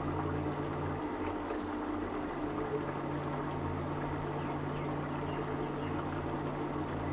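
Pot of egg curry cooking on the stove: a steady hiss of simmering gravy under a low hum.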